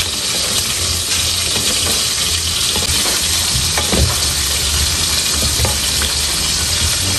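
Chicken adobo with potatoes and eggs sizzling in a wok as two wooden spatulas stir and turn it, with a few scrapes and knocks of wood on the pan, the most distinct about four seconds in.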